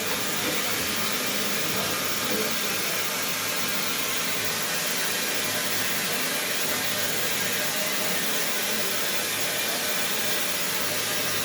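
Hot water tap running open with a steady hiss, bleeding trapped air out of the hot water line from a refilled geyser.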